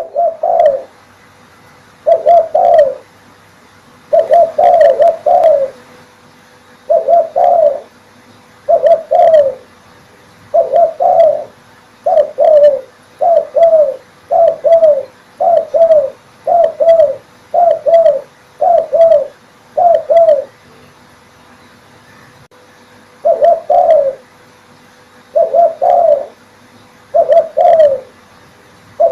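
Male spotted dove (derkuku) cooing loudly and repeatedly, in short two- or three-note phrases that come every second or two, with a pause of a couple of seconds near the end.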